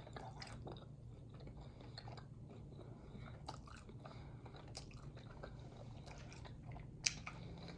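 Faint close-up chewing of a bite of well-done steak: soft, scattered mouth clicks, with one sharper click about seven seconds in.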